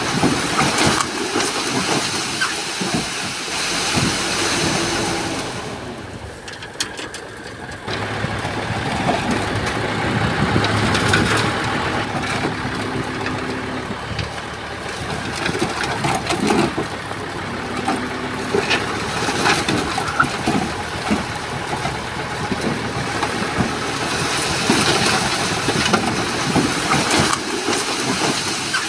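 Komatsu crawler bulldozer's diesel engine working under varying load, with repeated short knocks and clatter. It dips quieter for a couple of seconds about six seconds in.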